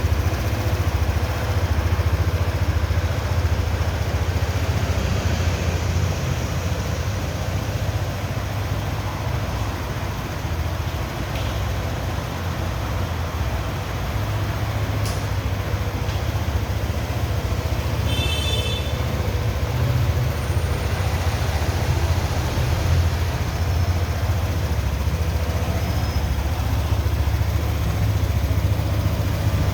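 Steady low vehicle rumble, with a brief high chirp about eighteen seconds in.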